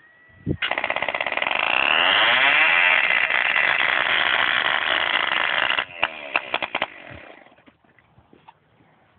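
Small model engine starting up sharply just after a brief high whine and running very loud at high revs for about five seconds. It then cuts out abruptly with a few sputtering pops before falling quiet.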